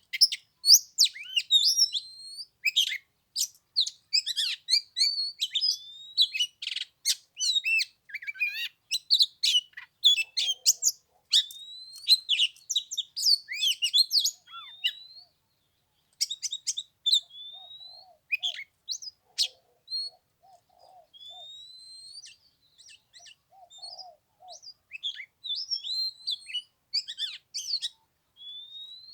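Oriental magpie-robin singing: a long, varied run of clear whistles, fast chirps and rising and falling notes, dense at first and then broken by pauses.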